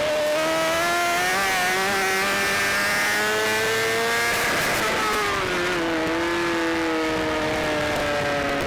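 BMW S1000RR's inline-four engine pulling hard on track, its pitch rising for about four seconds, then a brief break about halfway and a falling pitch as the bike slows, over a steady rush of wind noise.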